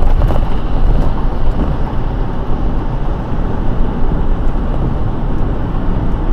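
Car driving on a rain-wet road: a steady, loud low rumble of road and tyre noise.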